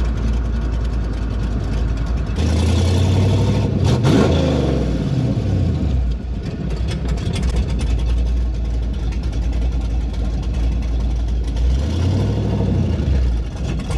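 LS V8 engine in a Pontiac Trans Am running loud while driving, with the exhaust open on one side where the muffler is off. The revs climb and fall about three to four seconds in.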